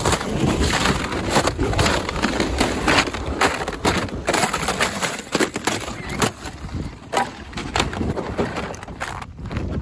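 Snow and ice crunching in a dense run of irregular crackles, with wind buffeting the microphone.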